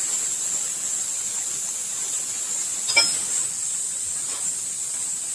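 CNC plasma cutting torch's arc hissing steadily and high-pitched as it cuts sheet metal, with one brief sharp click about three seconds in.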